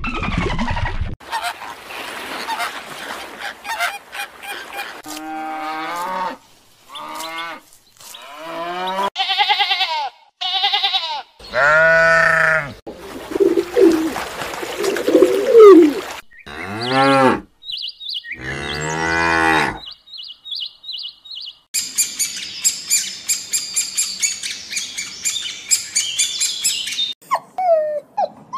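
A sequence of animal calls: beluga whale whistles and squeals rising and falling over the first ten seconds or so, then several long, low drawn-out calls, and fast, high bird twittering near the end.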